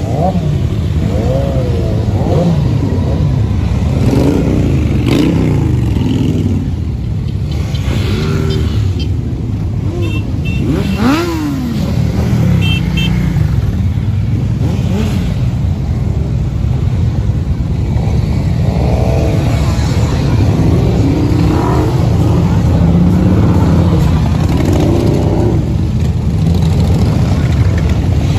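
Several motorcycle engines running and revving together over a steady low rumble, their pitches rising and falling.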